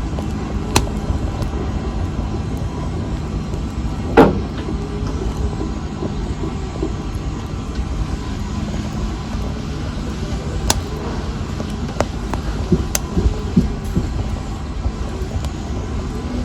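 Fireplace fire burning with a steady low rumble, with scattered sharp crackles and pops; the loudest pop comes about four seconds in.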